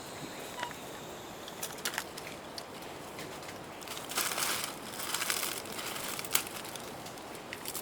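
Crunching and crinkling of dry leaf litter, two short bursts about four and five seconds in with scattered sharp clicks around them, as of footsteps on a jungle trail.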